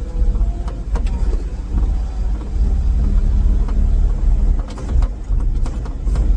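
Ford F-350 dump truck running and driving, a steady low engine and drivetrain rumble with scattered short knocks and rattles.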